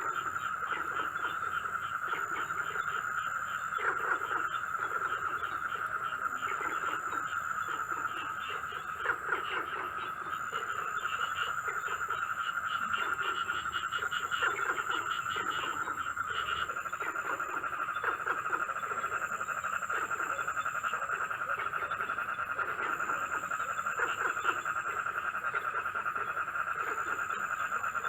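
Night chorus of frogs: short croaks repeating under a steady high trill, with a thinner, higher sound pulsing on and off every few seconds.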